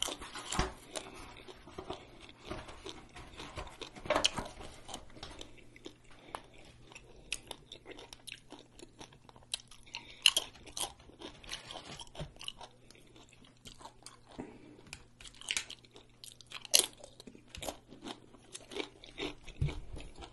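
Close-miked eating: chewing and mouth sounds with scattered sharp clicks, the loudest about four, ten and seventeen seconds in.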